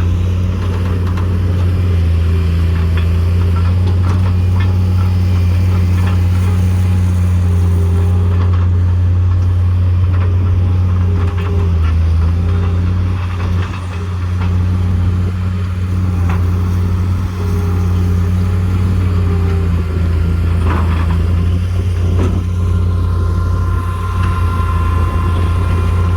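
Engine of heavy equipment running steadily at a constant speed, with a few brief knocks near the end.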